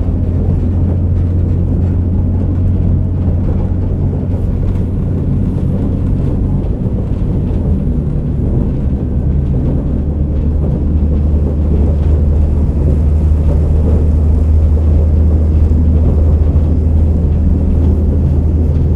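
Interior running sound of a KiHa 47 diesel railcar under way: a steady low diesel engine drone with rail and running noise, muffled by a phone in a pocket. The low drone drops away briefly about seven seconds in, then returns.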